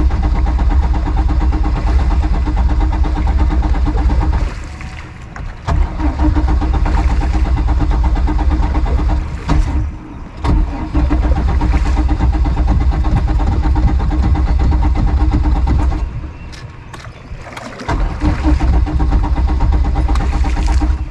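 Boat engine being cranked on its starter in four long tries of a few seconds each, without catching; the motor had stalled.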